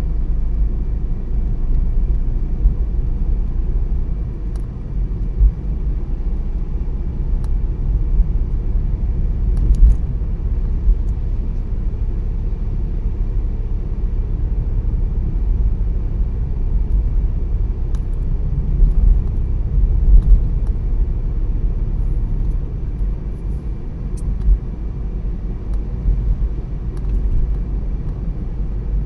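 A car driving at steady speed: continuous low road and tyre rumble, with a few brief knocks about a third and two thirds of the way through.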